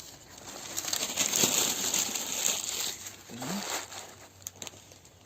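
Newspaper being crumpled by hand into loose balls, a dense crackling rustle loudest in the first three seconds and then fading.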